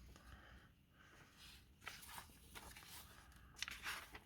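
Near silence with a few faint paper rustles as magazine pages are handled, about two seconds in and again near the end.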